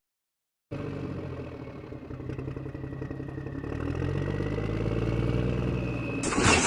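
A vehicle engine running and slowly rising in pitch, after a brief silence at the start; a sudden loud rushing noise breaks in near the end.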